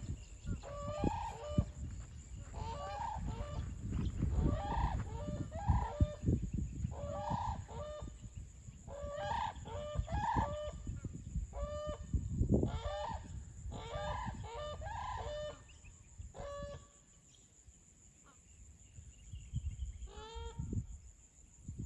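Pair of brolgas (Australian cranes) calling, a long run of repeated trumpeting calls; a racket. The calls stop about three quarters of the way through, and one more comes near the end.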